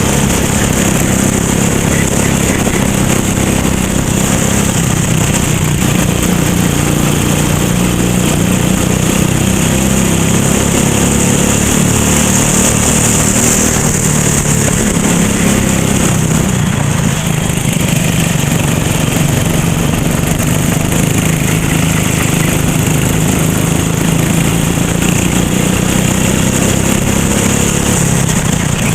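Racing kart engine running hard throughout, its pitch rising and falling gently as the throttle comes on and off, over a steady hiss.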